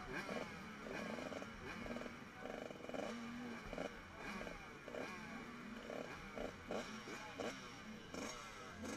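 Several motocross bikes running at once, engines revving up and dropping back as they change gear, their pitches rising and falling over one another.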